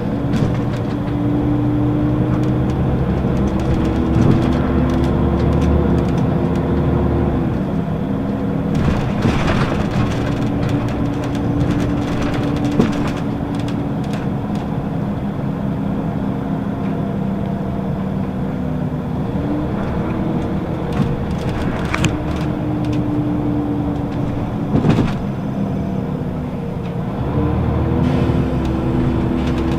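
Interior sound of a Scania L94UB bus driving, its engine and ZF automatic gearbox running steadily, the engine note dropping at gear changes about three times. A few short rattles are heard.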